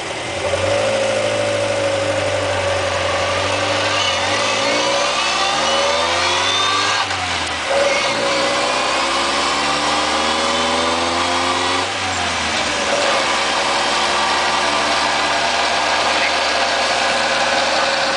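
Mitsubishi Jeep J58 running under way with its transmission making the abnormal noise the owner is showing. The engine pitch climbs twice, dropping back around 7 and 12 seconds in as if through gear changes, then holds steady, with a thinner whine rising along with it.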